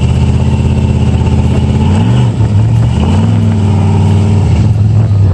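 A car engine running, with its pitch shifting briefly about two seconds in and again about three seconds in.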